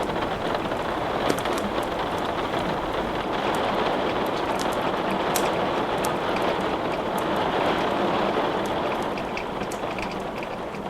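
Steady rain hiss, with scattered sharp crackles and pops of a wood fire burning over it.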